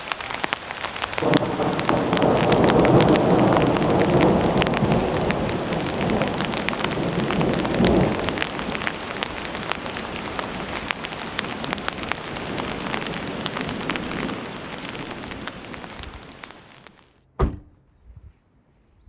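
Heavy rain pattering, with a long rumble of thunder that builds about a second in and slowly fades away. Near the end the sound drops almost to silence, broken by a single sharp knock.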